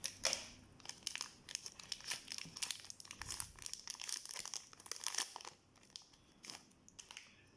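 Plastic candy wrapper crinkling as a small chocolate is unwrapped: dense, irregular crackles for about five and a half seconds, then only a few faint ticks.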